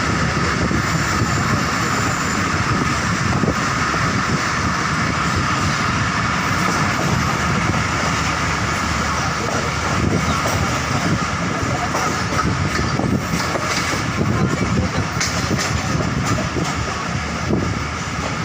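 Passenger train running along the track, a steady rumble and rattle of wheels and carriage, with a few sharper clicks in the later part.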